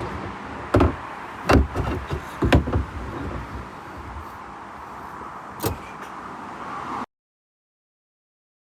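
Several sharp knocks and thumps over a steady background noise, then the sound cuts out to dead silence about seven seconds in.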